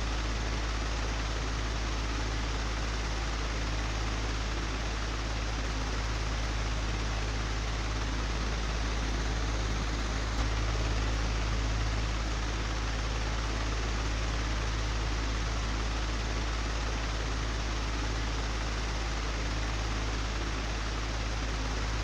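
Old, broken electric fan running steadily: a deep hum under an even rush of air, with one small tick about halfway through.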